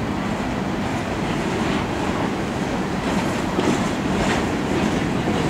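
Empty coal cars of a freight train rolling past: a steady rumble of steel wheels on the rails, with some fainter higher clatter in the middle.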